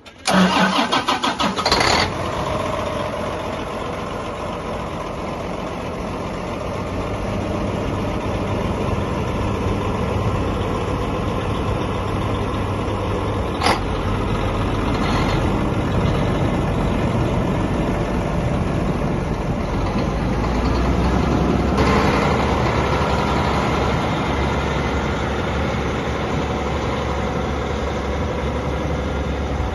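A 2010 John Deere 9430 4WD tractor's six-cylinder diesel engine is cranked by the starter for about two seconds, catches and settles into a steady idle. A single sharp click comes about halfway through, and a little later the engine gets somewhat louder and holds there.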